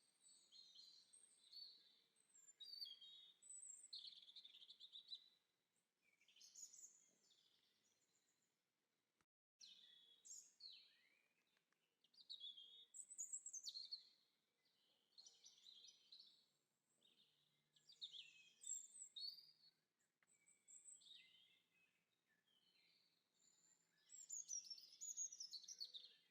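Faint songbird chorus: varied chirping and warbling phrases following one another every second or two, with a brief break about nine seconds in.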